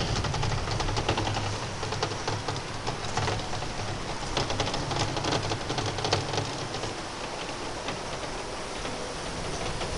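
Snowstorm wind rushing with a low rumble, and wind-driven precipitation ticking rapidly against a surface, the ticking thickest in the first few seconds and thinning out later.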